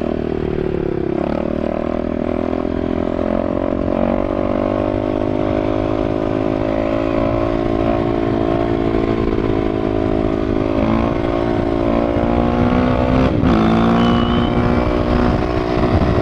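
Motorcycle engine running under steady throttle while riding, its pitch holding fairly even. The pitch dips and climbs back just after the start, and drops sharply then rises again about 13 seconds in.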